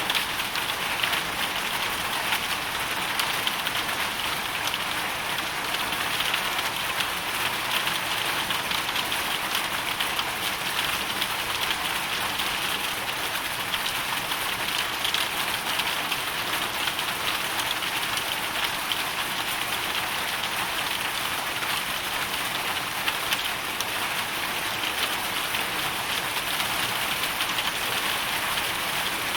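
Hailstorm: a dense, steady patter of hail and rain falling on a surface.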